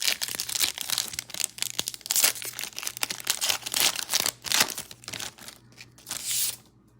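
Foil trading-card pack wrapper being torn open and crinkled by hand, a dense run of irregular crackling with louder rips scattered through.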